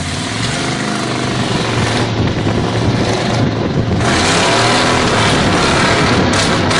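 Truck engine pulling away in first gear, its pitch rising as it accelerates, with road and tyre noise building about halfway through.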